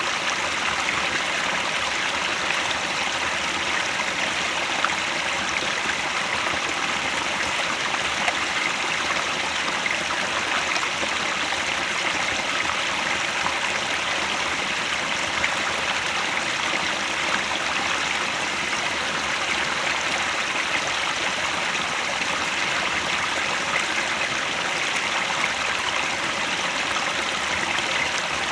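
Headwater mountain stream flowing steadily, a constant rushing and gurgling of water.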